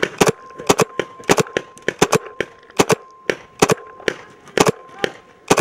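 Paintball markers firing, single shots and quick doubles and triples about every three-quarters of a second, with a faint steady thin whine underneath.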